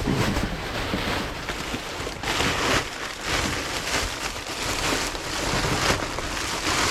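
Rummaging through a dumpster: plastic trash bags rustling and crinkling, swelling and fading as they are moved about.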